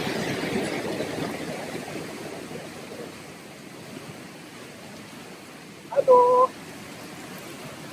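Waterfall rushing as a steady noise that fades down over the first few seconds and then holds low. About six seconds in, a short steady tone lasting about half a second is the loudest sound.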